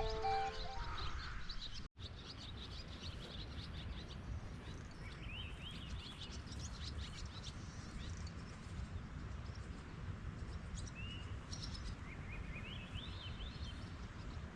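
Small birds chirping in short rising notes, in scattered runs, over a steady low background noise. Music ends in the first second, and the sound drops out briefly about two seconds in.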